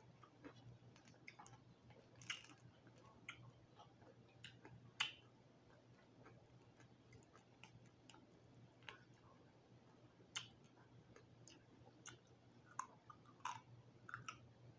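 Faint chewing of crispy roasted quail, with scattered small sharp clicks and crackles from the mouth and from the bird being pulled apart by hand; a few of the clicks stand out louder.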